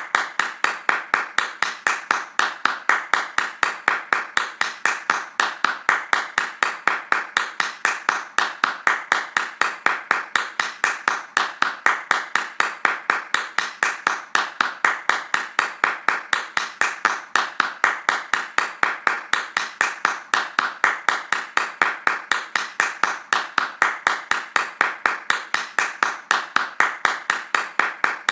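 A person's hands clapping fast in a steady, even rhythm, each clap a sharp crack.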